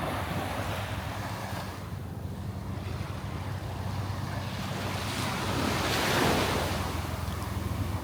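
Surf washing onto the beach, swelling to its loudest as a wave breaks about six seconds in, with wind rumbling on the microphone.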